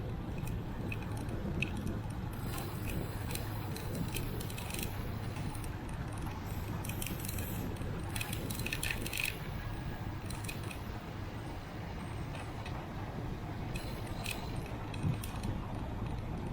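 Bicycle riding along, with a steady low rumble of wind and road, and three spells of light metallic jangling and rattling.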